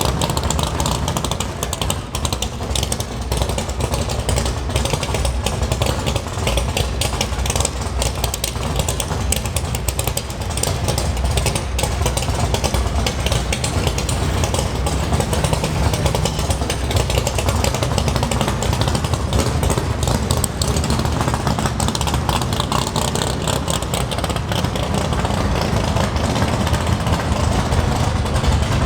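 Loud muscle-car V8 exhaust idling and rolling past at low speed, a deep steady engine sound that grows louder in the second half.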